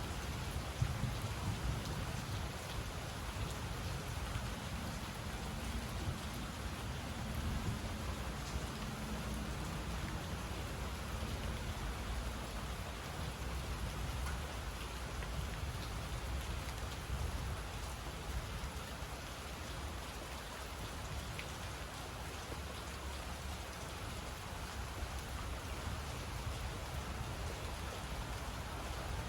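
Steady rain falling, with scattered drop ticks and a low rumble of distant thunder underneath, heaviest in the first third.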